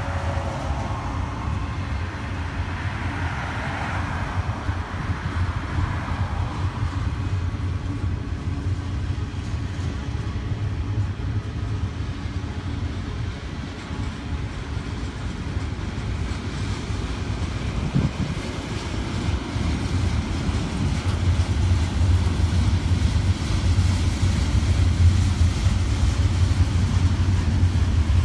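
Double-stack container train rolling past: a steady low rumble of steel wheels on rail, louder in the last third, with a single sharp clank about 18 seconds in. Near the start a pickup truck drives past on the road, its tyre noise fading over the first few seconds.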